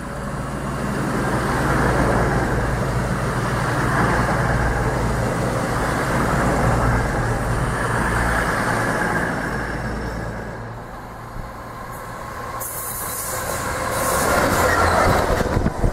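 A train running through the station: a sustained rumble with a steady low engine hum that swells, eases off about two-thirds of the way through, then builds again near the end.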